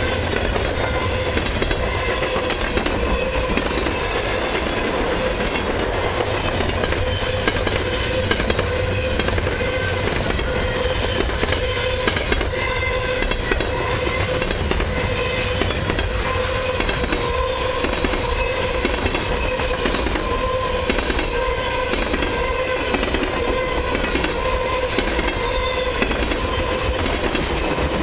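Long freight train of autoracks and mixed cars rolling past at about 45 mph: a steady rumble, with the wheels clacking over the rails. A steady high ringing tone runs underneath.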